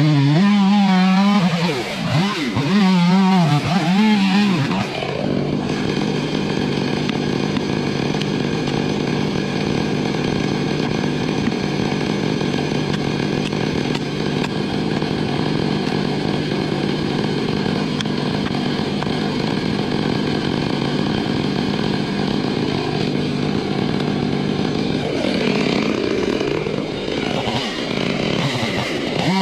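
Chainsaw engine revving up and down for the first few seconds, then running steadily at high speed for about twenty seconds, with the pitch wavering again near the end.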